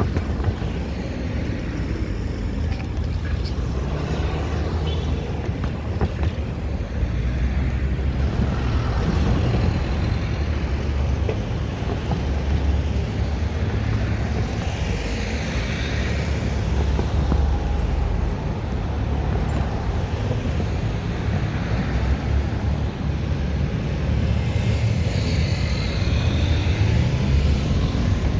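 Street traffic heard from a moving bicycle: a steady low rumble, with cars passing by, one swelling and fading about halfway through and another near the end.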